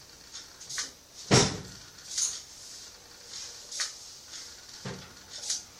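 A single sharp thump about a second and a half in, with a few short soft hissing noises scattered around it.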